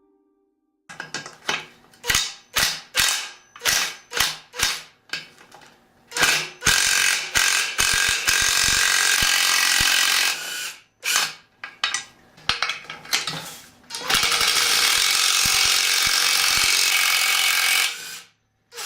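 Tool work on dirt bike linkage bearings: a run of short mechanical strokes about two a second, then a long steady rasping stretch, more strokes, and a second steady stretch.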